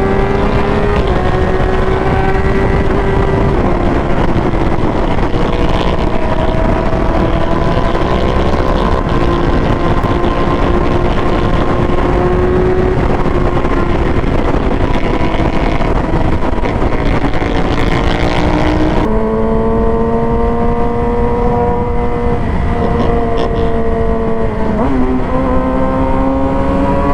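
Yamaha R6 inline-four sport bike engine running at a steady cruising pitch, with heavy wind rush on the rider's helmet microphone. About two-thirds through the wind hiss drops and the engine note comes through clearer. Near the end the pitch dips briefly and climbs again.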